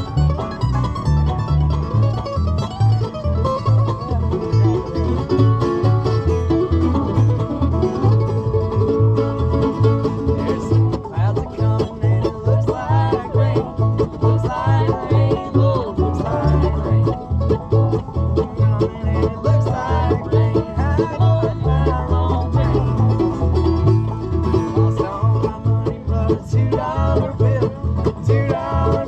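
Acoustic bluegrass band playing an instrumental stretch, with banjo picking over guitar and a steady pulse of alternating low bass notes.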